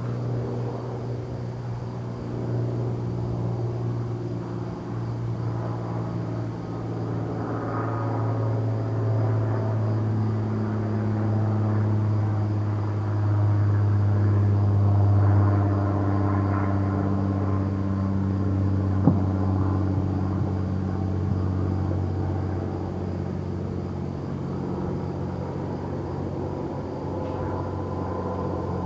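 Steady low engine drone whose pitch slowly drifts, growing louder towards the middle, with a single sharp pop about two-thirds of the way through.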